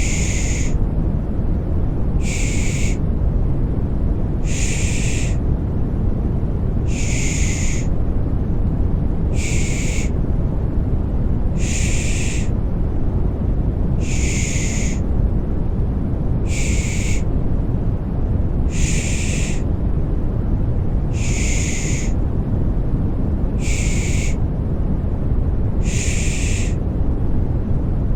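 Rhythmic 'pış pış' baby-soothing shushing: a short 'shh' about every two seconds over a steady, deep white-noise bed.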